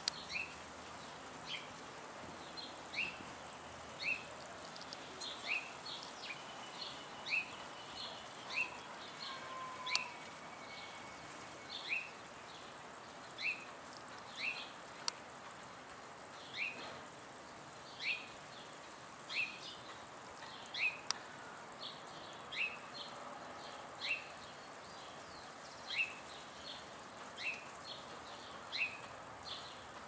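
A bird repeating a short chirp call over and over, roughly every second and a half, with a few fainter chirps between, over a steady outdoor hiss.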